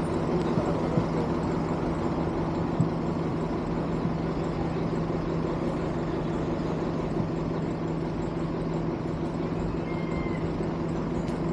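A vehicle engine running steadily at an unchanging pitch, with road or traffic noise underneath.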